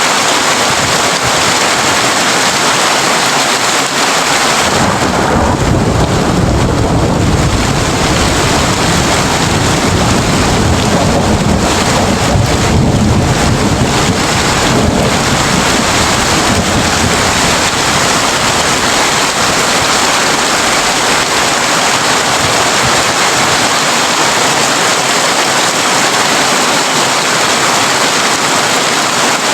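Heavy rain drumming steadily on a tin roof, with a long, deep thunder rumble rolling in about five seconds in and fading out around fifteen seconds.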